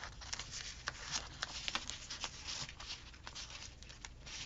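Thin paper stickers and planner pages being handled: irregular soft crinkles and light taps as a sticker is placed and pressed down.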